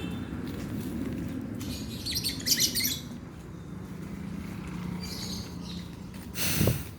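Lovebird chirping: a quick run of shrill chirps about two seconds in, then a few fainter ones. Near the end comes a brief, loud rustling burst.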